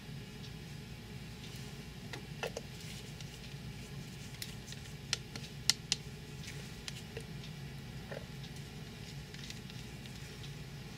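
Scattered light taps and clicks of soap-making utensils, with three sharper ones about five to six seconds in, over a steady low hum.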